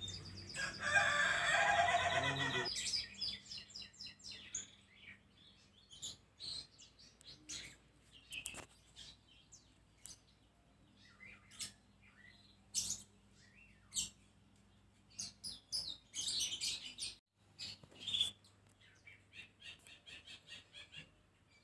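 Birds chirping in short, scattered calls, with one longer, louder call in the first few seconds.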